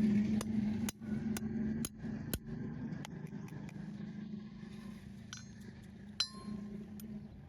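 Farrier's metal tools working on a horse's hoof: sharp clicks about twice a second, and a ringing metallic clink about six seconds in, over a steady low hum that fades.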